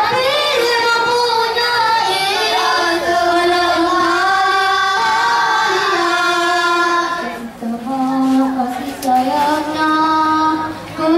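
Young boys singing a melody together into handheld microphones, holding long notes, with a short break about seven seconds in before they carry on.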